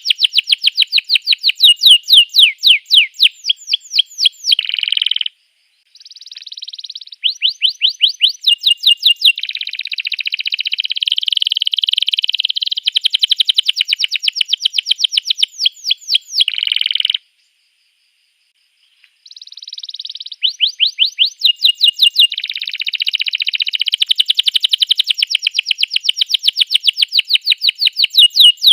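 Domestic canary singing: long runs of fast, repeated down-sweeping notes and rolling trills, broken by two short pauses.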